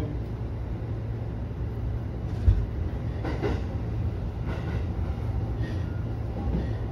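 JR Kawagoe Line electric commuter train running along the line, heard from the driver's cab as a steady low rumble. A single sharp knock comes about two and a half seconds in, followed by a few fainter clicks.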